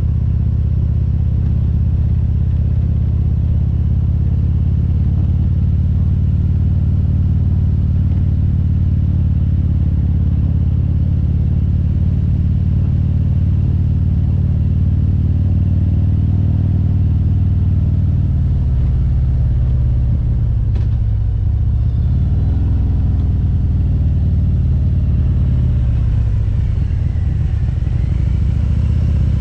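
Harley-Davidson Road Glide's V-twin engine running under way, heard from the bike. Its pitch wavers and shifts in the last third, with a single click about two-thirds through.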